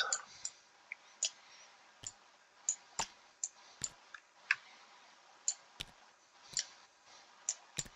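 Computer mouse clicks, about a dozen single clicks at irregular intervals, as a game piece is selected and moved.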